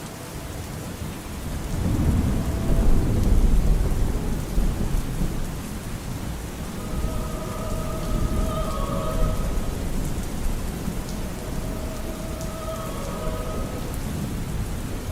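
Steady rain with a long, deep rumble of thunder that swells about two seconds in, is loudest around three to four seconds, then rolls away. Faint held musical notes come in over the rain around halfway through.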